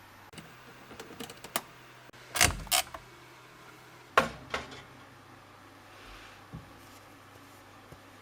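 Mechanical clicks and a creak from a Whirlpool washing machine, then two loud clunks about two seconds apart. A low steady hum stops at the second clunk.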